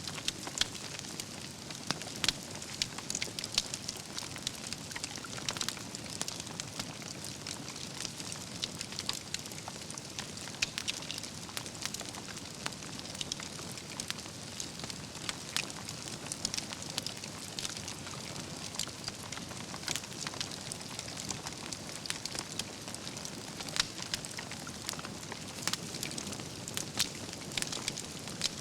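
Wood campfire burning: a steady hiss with frequent sharp crackles and pops from the burning logs and embers.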